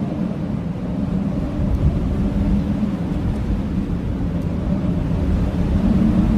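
Blizzard wind howling steadily, a deep rumble with low, wavering tones that swell and fade.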